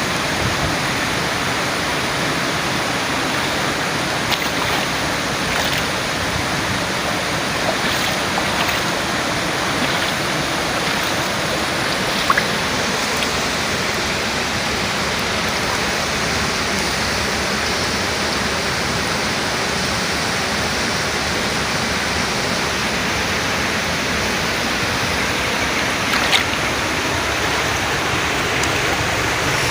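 Steady, loud rush of water, even and unbroken, with a couple of brief faint knocks about twelve seconds in and near the end.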